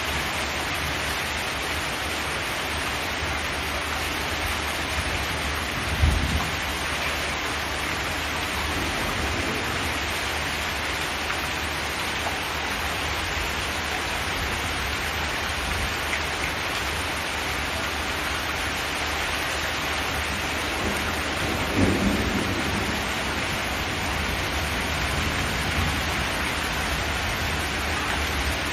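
Steady rain drumming on a zinc metal roof. Two short, low thuds break through it, about six seconds in and again about twenty-two seconds in.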